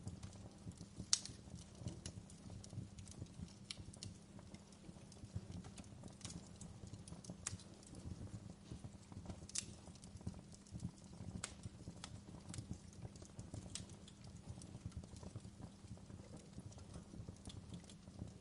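Wood fire crackling: irregular sharp pops and snaps, one louder pop about a second in, over a steady low rumble.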